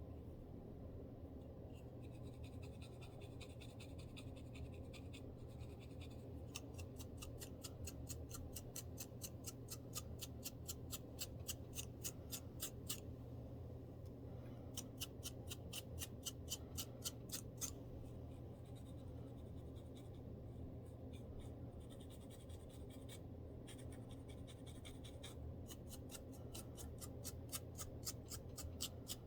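Dandruff being scratched from a scalp: quick, dry scratching strokes at about five a second, in runs of several seconds with short pauses between, over a steady low hum.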